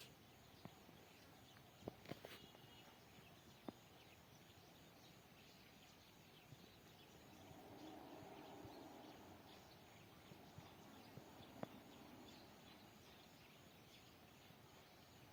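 Near silence: faint outdoor background with a few sharp clicks and a faint swell of sound about halfway through.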